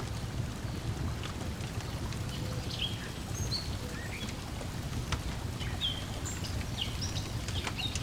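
Layered lakeside ambience: a steady low wash of lapping water under the scattered pops of a crackling wood fire, with short bird chirps from about three seconds in.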